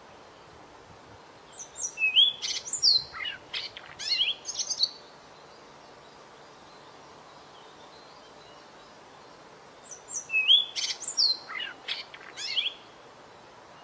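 A small songbird's song: a fast phrase of high, sweeping whistles and sharp chirps, about three seconds long, heard twice in identical form as a repeated recording, over a steady hiss.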